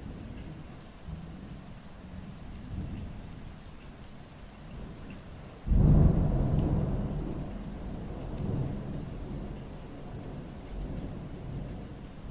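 Rain falling through a thunderstorm with low rolling thunder. Just under six seconds in, a loud clap of thunder breaks suddenly and rumbles away over several seconds.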